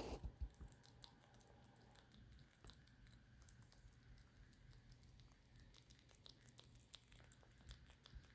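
Near silence with faint, scattered small clicks and ticks, a few louder ones at the very start.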